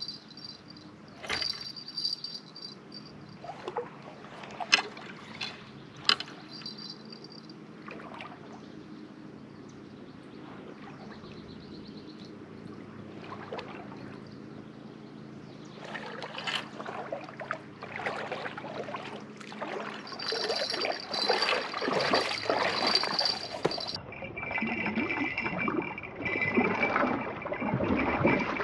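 Water splashing and sloshing, with scattered sharp clicks and knocks early on; the splashing gets busier and louder in the second half.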